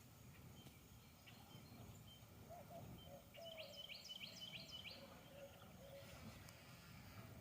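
Faint bird calls: scattered high chirps with a quick run of about five near the middle, and short lower calls, over a low steady background rumble.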